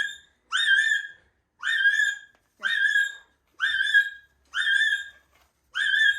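A parrot calling over and over, about six calls roughly a second apart, each a short rising whistle-like note that levels off and holds.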